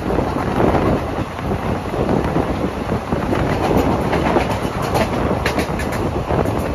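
Passenger coach of an express train running along the track, heard from on board: a steady rumble of wheels on rail. A cluster of sharp clicks comes about five and a half seconds in.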